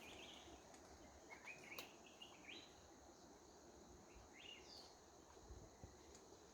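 Faint bird calls: several groups of short, quick chirps, with a higher call about four and a half seconds in, over quiet background hiss.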